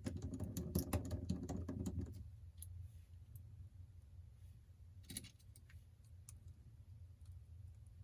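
Rapid small clicks and taps of a precision screwdriver and tiny metal parts being handled on an iPhone 8 during reassembly, a dense run in the first two seconds and another short one about five seconds in. A steady low hum runs underneath.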